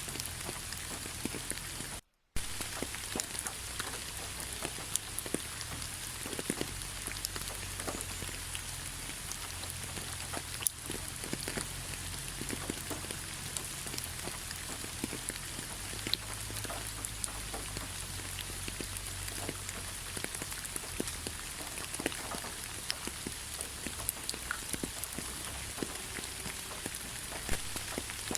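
Steady rain falling, a constant hiss with many scattered single drops ticking louder on top. The sound cuts out completely for a moment about two seconds in, then resumes.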